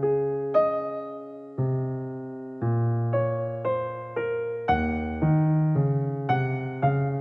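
Background music: slow, gentle piano, notes and chords struck about once a second and left to ring and fade.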